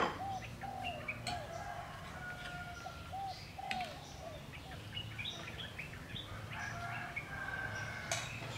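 Birds calling in the background: a run of short repeated calls with scattered chirps, over a low steady hum. One sharp metal clink near the end.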